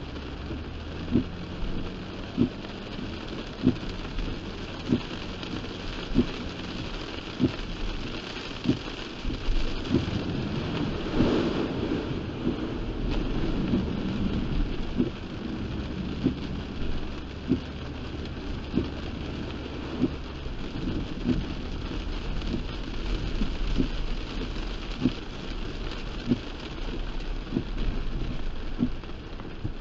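Heavy rain drumming on a car, with the windshield wipers knocking at the end of each sweep about once a second. About eleven seconds in the rushing noise swells louder for a few seconds, then settles back.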